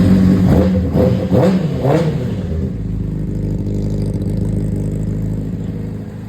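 Honda CBR600RR inline-four engine, just fired up, blipped in several quick revs over the first three seconds, then settling into a steady idle.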